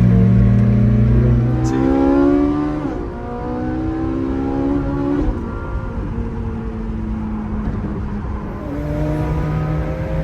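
McLaren 765LT's twin-turbo V8, heard from inside the cabin, accelerating hard. It rises in pitch and drops sharply at quick upshifts about three and five seconds in, then eases off before pulling up again near the end.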